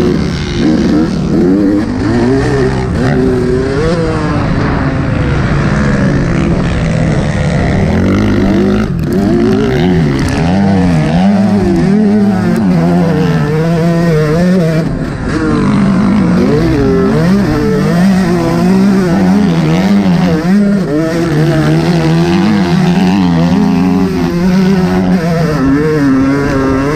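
Yamaha YZ125 single-cylinder two-stroke motocross engine being ridden hard, its pitch rising and falling over and over with throttle and gear changes.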